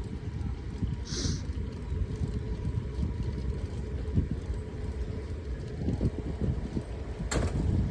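Wind buffeting the microphone of a camera carried on a moving bike: a steady, gusting low rumble, with a brief hiss about a second in and a short burst of noise near the end.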